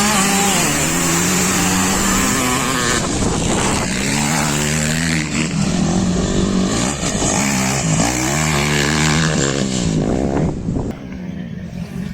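Motocross dirt bike engines racing, revving up and falling back over and over as the riders open and shut the throttle, then fading somewhat near the end.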